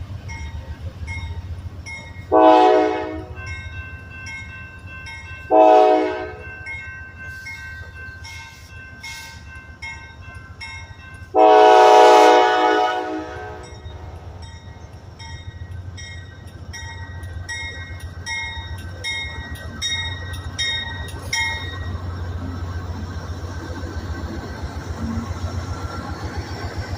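Train horn sounding two short blasts and then one long blast over a steady low locomotive rumble, with a bell ringing at an even pace through most of it.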